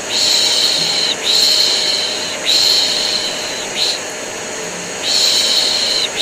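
A person making long, repeated 'shhh' shushing sounds, each about a second long, four in all with a pause in the middle. Under them a vacuum cleaner runs steadily. Together they make a soothing white noise for a colicky baby.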